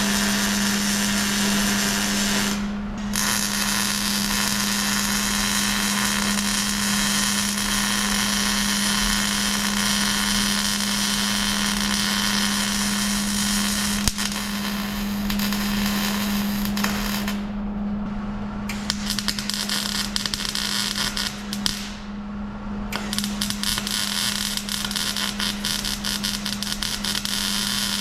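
Metalworking power-tool noise: a loud, dense hissing and crackling over a steady hum, with the hiss stopping briefly three times.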